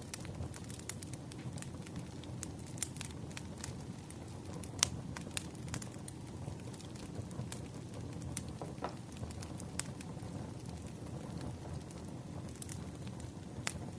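Wood fire burning: a low steady rumble with scattered sharp crackles and pops, the loudest pop about five seconds in.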